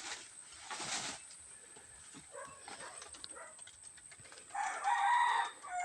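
A rooster crowing once, a drawn-out call starting about four and a half seconds in.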